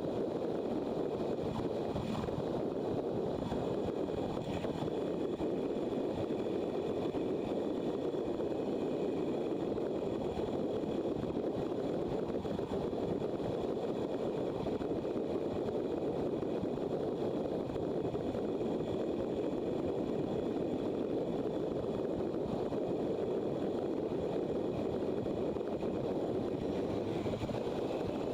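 Steady wind rush and road noise from a motorcycle riding along, with its engine running underneath.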